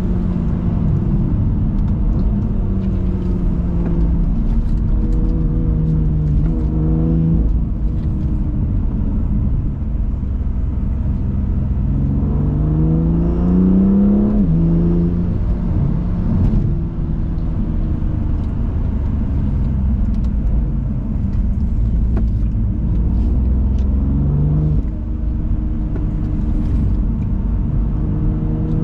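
BMW M2 Competition's twin-turbo inline-six pulling through the gears on a winding road. The engine pitch climbs under acceleration and drops back at upshifts, most clearly a little before halfway, over a steady low rumble of engine and road.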